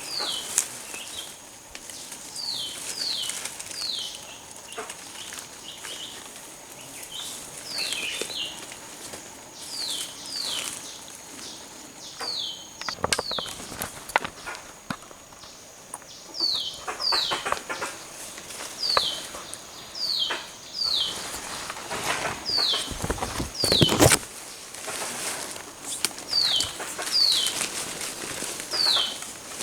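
A bird calling repeatedly in short, downward-slurred whistles, often two in quick succession, about once every second or two, over a steady thin high-pitched tone. A loud brief knock or rustle comes near the two-thirds mark.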